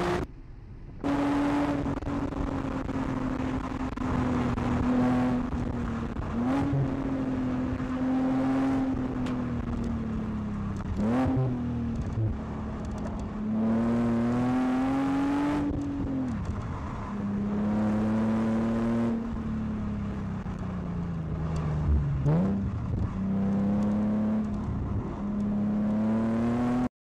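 Nissan 370Z's 3.7-litre V6 engine heard from inside the cabin, driven hard on track: the engine note rises and falls with throttle and gear changes, with a few sharp rev spikes around the middle and near the end. The sound drops out briefly about a second in.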